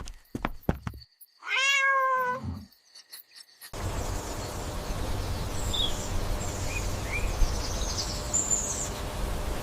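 A cat meows once, a drawn-out call about a second long, after a few faint clicks. A little later the sound cuts to a steady background hiss with a low rumble and a few faint high chirps.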